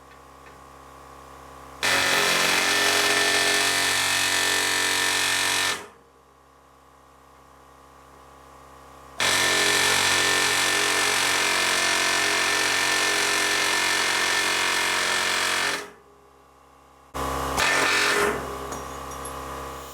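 Power tool run in three bursts, about four seconds, then seven, then a short one near the end, with a steady high whine, cutting or drilling out old rivets on a truck frame cross member.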